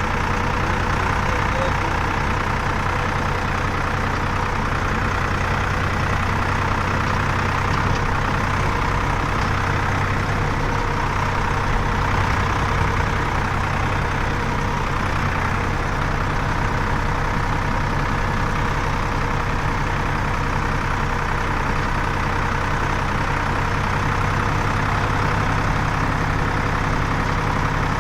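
Heavy diesel engine running steadily at a constant speed, with no revving or changes in pitch.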